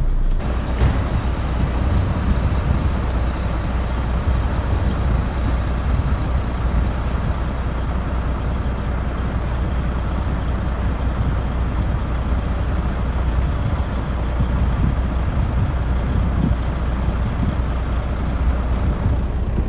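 Semi truck's diesel engine running steadily at low speed, with road and cab noise.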